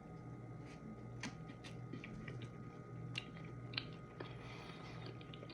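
Faint chewing of a soft mouthful of banana in a hot dog bun, with small wet mouth clicks scattered through it over a low steady hum.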